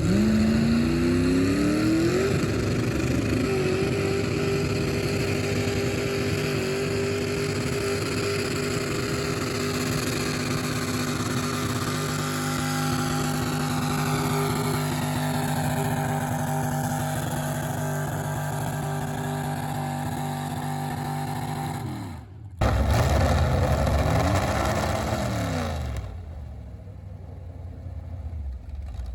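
Antique tractor engine revving up and then running hard at steady high revs, as under load in a tractor pull. About 22 seconds in the sound cuts to an engine revving up and down again.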